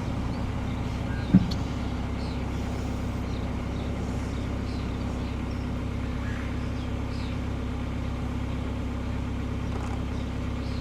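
Steady low hum of a car engine idling, heard from inside the vehicle, with a few faint high gosling peeps and one sharp thump about a second and a half in.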